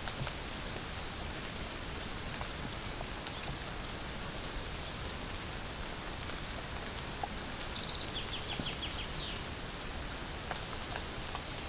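Light rain falling steadily on a tarp, with scattered single drops. About eight seconds in, a bird gives a quick run of about six short high notes.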